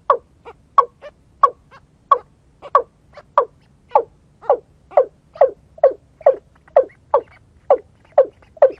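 White-breasted waterhen calls: a steady run of short, falling notes, about two a second, used to lure the birds.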